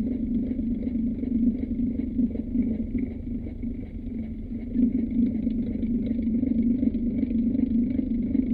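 Old electric fan running with a steady low hum and rumble, easing off slightly about four seconds in before returning.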